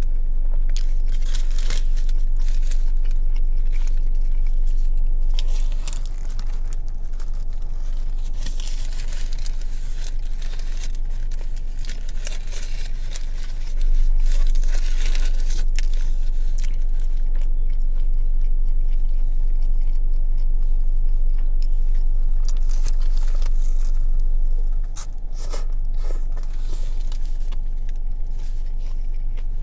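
Close-up eating sounds of a meatball sub: bites and chewing of the bread, with crunching and paper-wrapper crinkling coming in clusters, over a steady low rumble.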